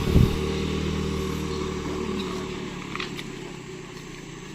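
Truck engine running under throttle, gradually fading away over a few seconds, with a single loud low thump just after the start.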